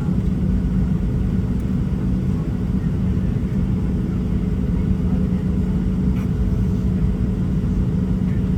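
Steady low cabin drone of a Boeing 737-700 on the ground before takeoff, with a steady hum over a low rumble.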